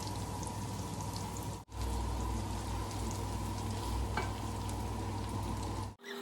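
Food sizzling as it fries in hot oil in a pan, a steady frying hiss. It cuts out sharply twice, about a second and a half in and near the end.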